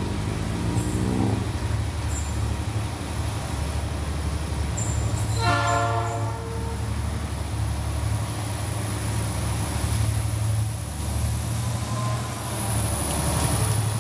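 GT22 diesel-electric locomotive passing at speed with a train of loaded coil cars, its engine and wheels rumbling steadily. It gives a horn blast about five and a half seconds in, lasting just over a second.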